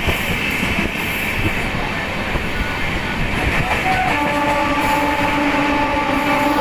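Train running along the track with a steady rumble and rattle; about four seconds in, a train horn starts and holds one steady note.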